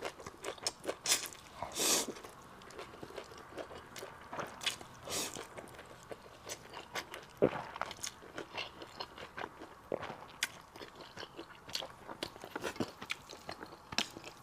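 Close-miked chewing of chewy, chili-oil-dressed rolled wheat noodles (ganmianpi), a steady run of small wet mouth clicks with a few louder bites and sucking sounds near the start.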